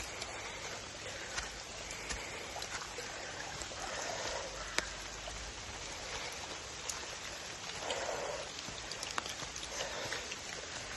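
Steady monsoon rain falling, with a few sharp drop ticks close by and a soft sound that comes back every couple of seconds.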